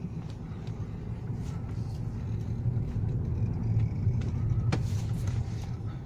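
Volkswagen Golf Mk6 with its 1.4 TSI petrol engine being driven: a steady low engine and road rumble, with one sharp click a little under five seconds in.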